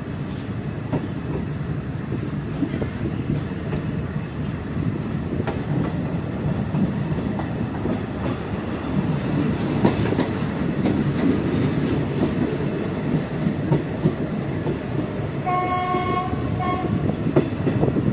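Passenger train running on the rails, a steady rumble with clattering clicks from the wheels and carriages. Near the end the locomotive's horn sounds for about a second.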